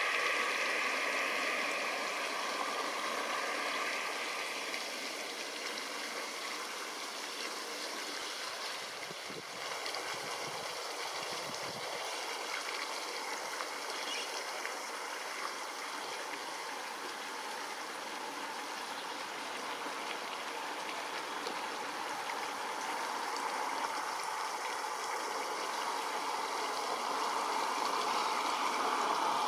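Steady outdoor background noise, an even hiss that thins a little through the middle and swells again near the end.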